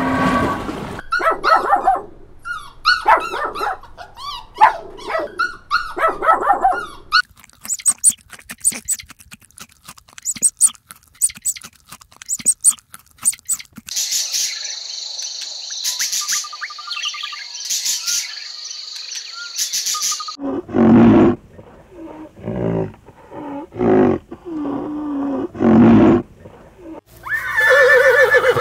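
A sequence of different animals' calls in quick succession, ending with a horse neighing.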